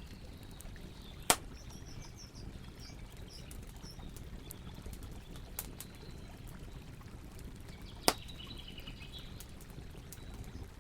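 Campfire burning with a steady low rush and small crackles, and two sharp loud pops, about a second in and about eight seconds in. Birds chirp faintly in the background.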